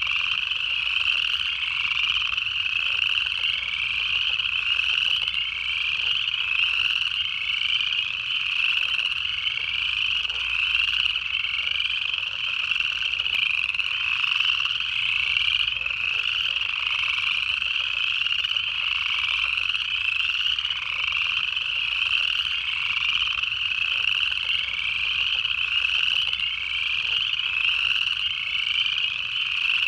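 Dense chorus of upland chorus frogs: many overlapping ascending trills calling continuously without a break.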